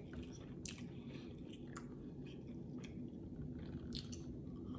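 Chewing and biting into deep-fried corn on the cob: soft, scattered wet mouth clicks and light crunches, with a fresh bite about four seconds in.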